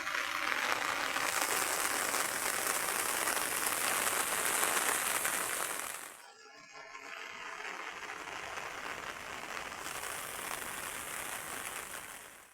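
Heavy rain falling in a steady, dense hiss; it drops away briefly about six seconds in and comes back a little quieter.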